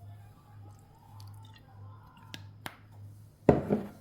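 Kitchen handling noises while seasoning raw chicken: a few light clicks around the middle, then a short louder noise in two quick parts near the end, over a steady low hum.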